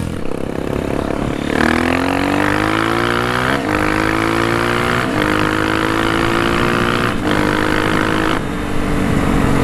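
Honda CRF230F's single-cylinder four-stroke engine accelerating through the gears: the engine note climbs in each gear and drops at each of four upshifts, then holds steadier near the end.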